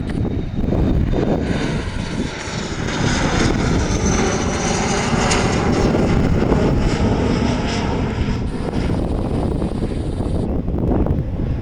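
Airliner engines as a plane passes close by on the runway: a loud rush of engine noise with a high whine, building a second or two in and strongest about halfway through. Wind buffets the microphone.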